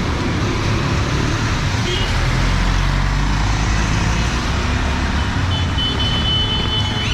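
Busy street traffic in the rain: engines running under a steady hiss of rain and tyres on the wet road. A short high tone sounds about two seconds in, and a longer steady high tone near the end.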